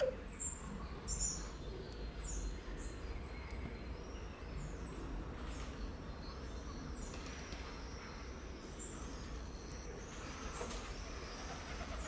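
Small birds chirping and tweeting on and off, short high chirps and brief pitch glides, over a low steady rumble.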